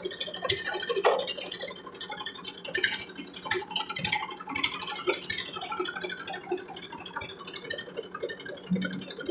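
Massey Ferguson tractor engine running with a steady buzzing drone.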